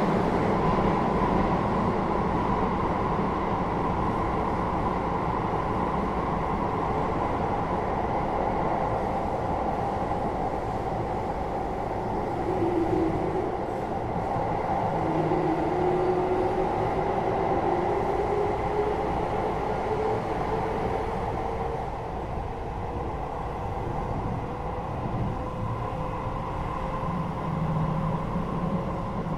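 Keio 8000 series electric train running, heard from inside the car above its Hitachi GTO-VVVF main controller: steady rolling and motor noise. Partway through, a humming tone starts and climbs slowly in pitch as the train gathers speed. This is the low hum from the controller area that comes with acceleration at high speed.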